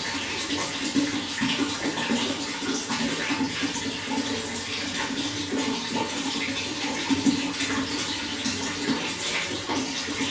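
Running water flowing steadily, with a constant rush full of small splashes and trickles.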